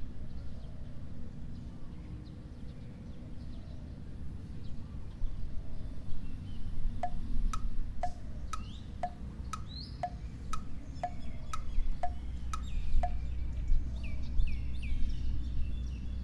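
A single chime-like note struck about twice a second, around a dozen times in a row, from about seven seconds in, over a steady low ambient rumble. Short high chirps come in between and after the notes.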